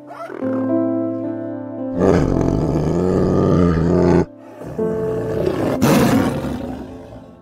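A white tiger roaring in two long, rough bouts, the first about two seconds in and the second after a short break, over soft piano music.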